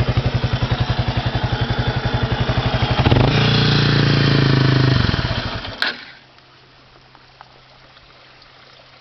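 Kawasaki Estrella RS single-cylinder engine idling with an even thumping beat, brought up briefly about three seconds in, then winding down and stopping about six seconds in, with a sharp click as it stops. After that only a faint low hum remains.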